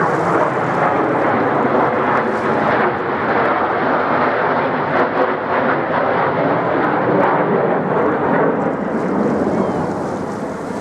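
Jet engines of a Canberra PR9 reconnaissance aircraft in flight during a display, a steady loud rushing noise whose highest hiss drops away about three seconds in.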